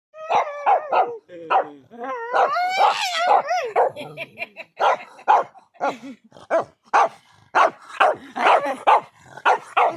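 Dog barking repeatedly, with wavering, drawn-out cries about two to four seconds in, then a steady run of barks at roughly two a second.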